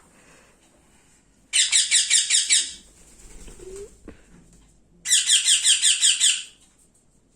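Baby ringneck parrot giving rapid, rhythmic begging calls while being fed: two loud bursts of several squeaky pulses a second, the first about a second long and the second about a second and a half.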